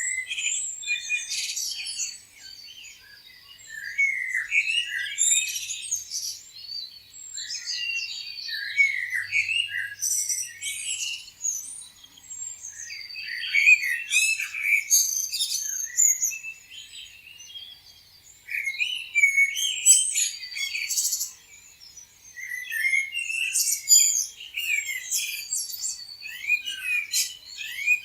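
Songbirds chirping and singing: quick, high, overlapping chirps and trills that come in bursts, with short lulls every few seconds.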